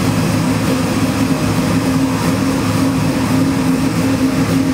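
Chevy LSx 441-cubic-inch V8 crate engine with Holley EFI, just fired up, running at a steady idle with no revving.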